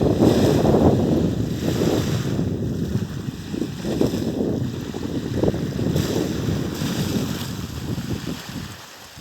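Wind buffeting the microphone: a gusty, rumbling noise that eases off toward the end.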